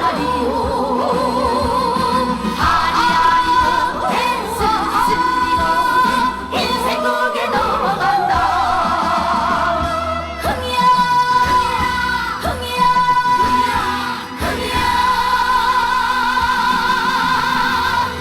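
Female trot vocalist singing live over an amplified band backing, holding long notes with vibrato.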